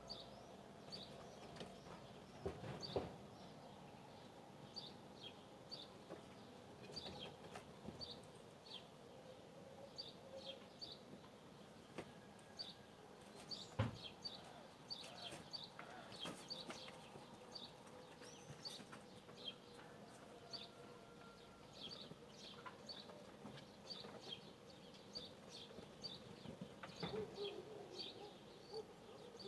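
Small birds chirping, many short high chirps repeating throughout, with a single sharp knock about halfway through.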